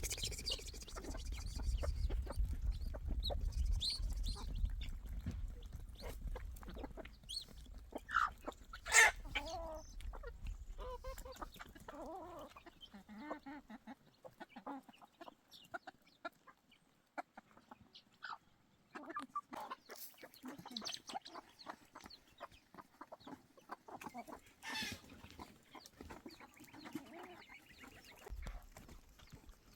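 Chickens clucking, with scattered short calls and one loud call about nine seconds in, over a low rumble during the first half.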